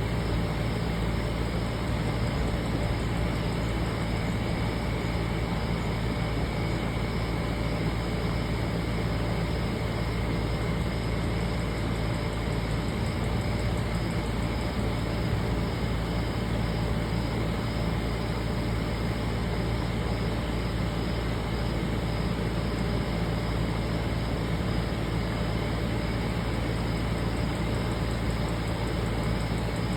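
Steady, unchanging background noise with a low hum, with no distinct events.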